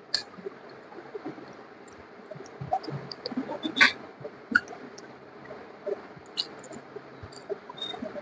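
Soft wet mouth sounds and small clicks of people eating ripe mangoes, with a sharper click about four seconds in.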